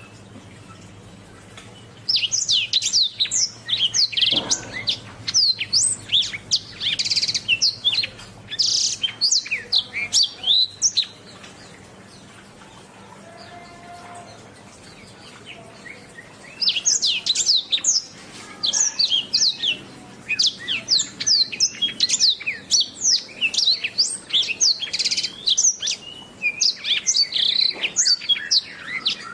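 Domestic canary singing: fast runs of high chirps and trills in two long phrases, with a pause of about five seconds between them.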